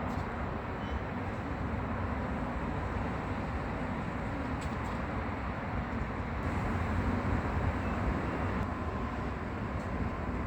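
Steady rumble and hiss of a moving vehicle, heavy in the low end, with no distinct events.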